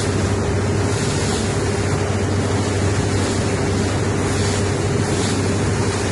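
Engine of a 30-foot Riviera motor cruiser running underway with a steady low drone, mixed with water rushing past the hull and wind buffeting the microphone.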